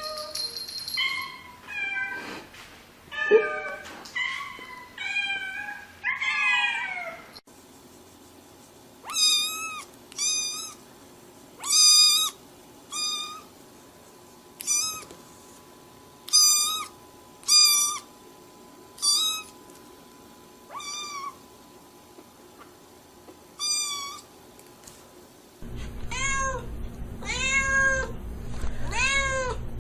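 Domestic cat meowing over and over, short separate calls about one a second. A steady low hum comes in under the meows near the end.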